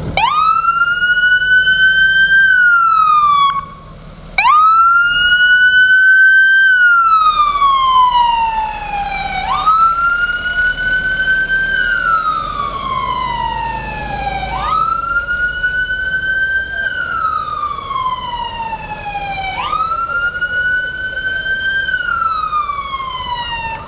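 Fire truck siren wailing loudly: five cycles, each climbing quickly, holding, then sliding slowly down, about every five seconds, with a brief break after the first.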